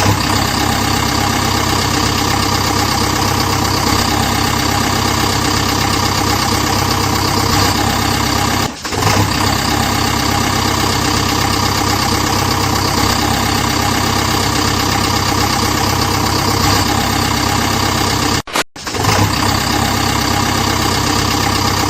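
Tractor engine running steadily at a constant speed, broken twice by brief cuts in the sound.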